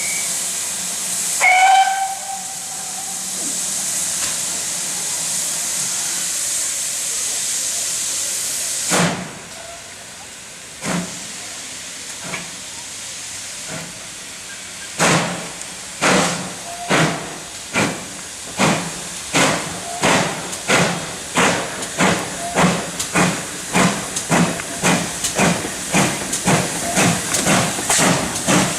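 Steam locomotive pulling away: a steady hiss of steam, a short whistle about a second and a half in, then the hiss stops and exhaust beats start slowly and quicken to about two a second.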